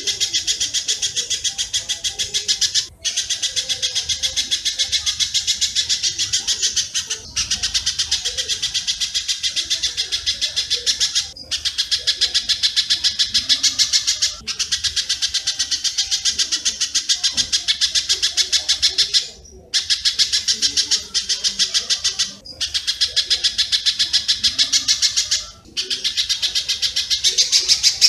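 Spiderhunter (pijantung) song mixed with swiftlet calls, played as a bird-mastering track: a clear, rough, densely packed run of rapid high chirps, in bouts of a few seconds broken by short pauses.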